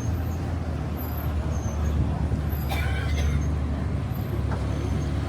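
Street traffic: a vehicle engine rumbling steadily, with a short hiss about three seconds in.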